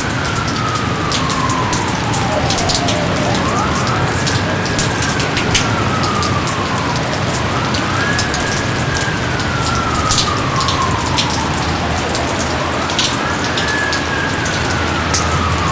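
Heavy rain falling steadily, with many sharp drip and splat clicks from drops hitting nearby surfaces. Over it, a long whistled tone rises quickly, then slides slowly down, and repeats about every three to four seconds.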